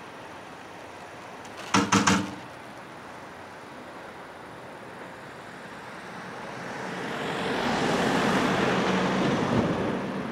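A quick cluster of four or five sharp knocks about two seconds in, then a vehicle approaching and passing close by, its noise swelling over several seconds, peaking near the end and then easing off.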